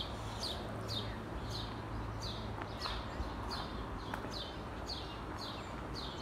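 A bird calling over and over: a short, high chirp that falls in pitch, repeated evenly about twice a second.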